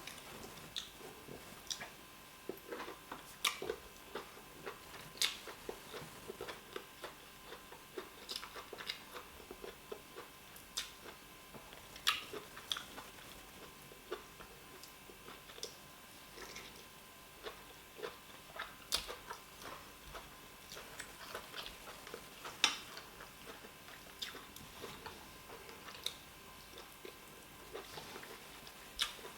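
Close-up eating sounds: soft chewing and wet mouth clicks from mouthfuls of fufu with oha soup, irregular, with a few sharper smacks standing out.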